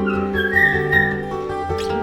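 Background acoustic guitar music, with a cockatiel whistling a few short notes that rise and fall in pitch over it during the first second. A brief sharp chirp comes near the end.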